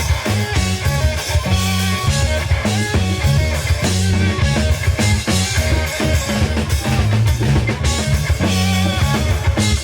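Live funk-rock band playing instrumentally: electric guitar, bass guitar, drum kit and hand percussion, with a bass line of held low notes and a steady drum beat.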